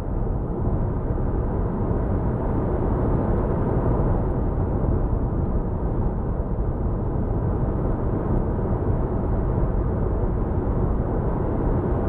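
Steady, even drive noise inside the cabin of a 2014 Lexus CT 200h hybrid on the move: engine, tyre and wind noise blended into one low drone with no gear changes.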